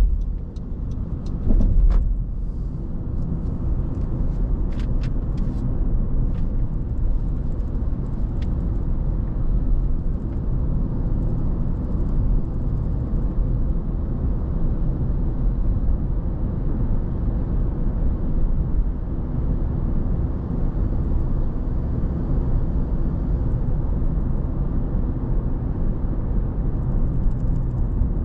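Steady low road rumble of a car driving: tyre and engine noise. A few short sharp clicks come in the first six seconds.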